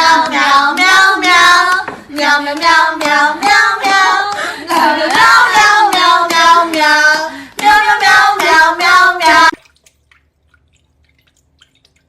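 A high-pitched voice in a run of short, wavering, sung notes, which cuts off about nine and a half seconds in.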